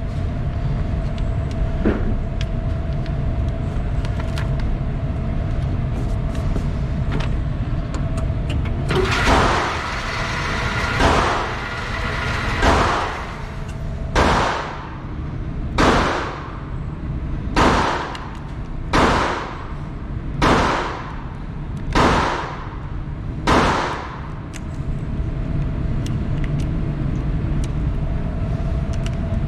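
A 9mm pistol fired at a slow, steady pace, about ten shots roughly a second and a half apart. Each shot is sharp with a short ringing tail, over a steady background hum.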